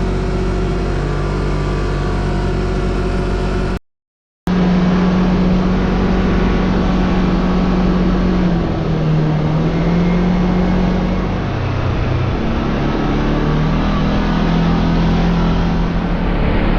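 Kawasaki KRX side-by-side's engine running under way, heard from on board, its pitch dipping and climbing a few times with the throttle. The sound cuts out completely for about half a second around four seconds in.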